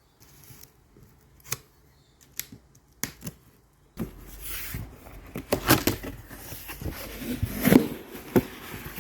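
A Stanley knife cutting open a cardboard parcel. Scattered short scrapes and clicks come first, then from about four seconds in a denser, louder stretch of cutting and handling noise with sharp knocks.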